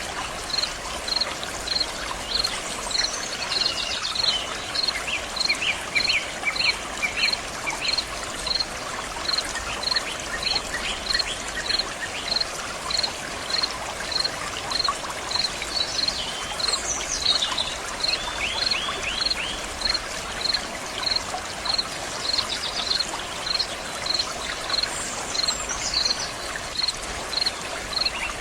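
Water flowing and splashing in a steady rush, with a short high chirp repeating about twice a second and a few bird calls.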